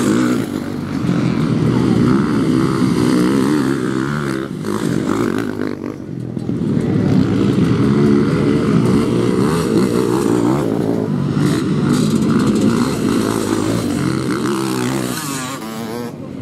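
Motocross bikes racing on the track, their engines revving up and down steadily and overlapping. The sound eases briefly about six seconds in and again near the end.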